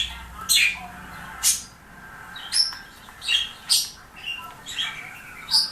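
Pet bird calling: about nine sharp, high chirps and squawks, one every half second or so, with softer warbling chatter between them.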